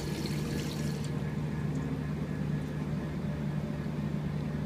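Water trickling from a small bottle, stopping about a second in, over a steady low hum.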